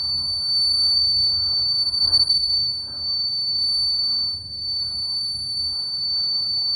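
Steady, high-pitched ringing tone that holds unbroken, over a fainter muffled jumble of lower sounds.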